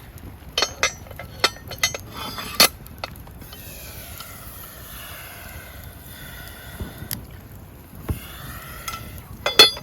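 Wood fire crackling with sharp pops, several in the first three seconds and a cluster near the end. Between them a wavering whistle-like hiss rises and falls, steam escaping from food cooking over the fire.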